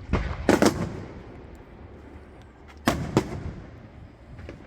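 Fireworks going off: three sharp bangs close together near the start, then two more about three seconds in, each with a short rumbling tail.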